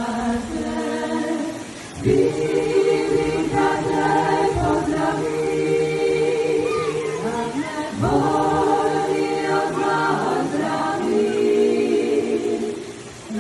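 Klapa singing: a traditional Dalmatian a cappella ensemble in close multi-part harmony, with a new phrase starting about two seconds in and another about eight seconds in.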